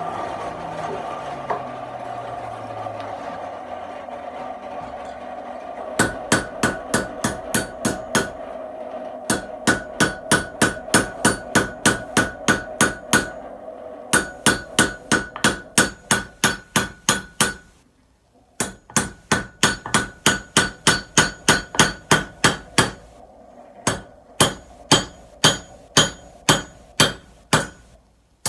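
A blacksmith's hammer strikes a Damascus billet on the anvil in quick runs of about four blows a second, with a bright ring off each blow, straightening the bar. For the first six seconds only a steady hum is heard, and it fades away about two thirds of the way through.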